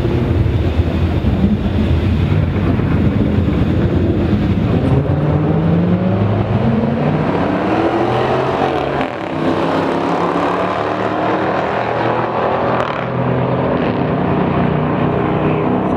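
Car engine at hard acceleration, its pitch rising, dropping briefly about nine seconds in as if on an upshift, then rising again.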